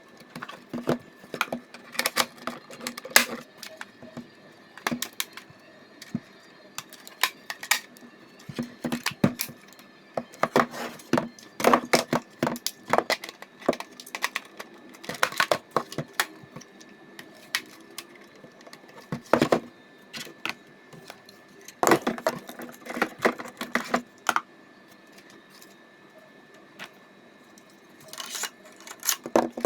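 Irregular clicks and rattles of hard plastic as a cheap spring-powered airsoft M4 is handled and unboxed, coming in clusters with a quieter lull near the end.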